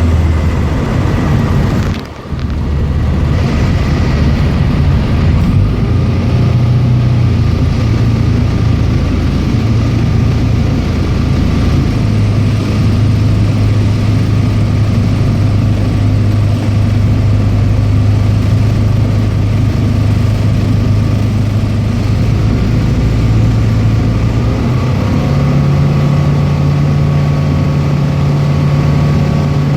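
Tecnam P92 Echo light aircraft's piston engine running steadily, heard from inside the cockpit. The sound drops out briefly about two seconds in, the engine note shifts about twelve seconds in, and it rises in pitch about 25 seconds in as power is added.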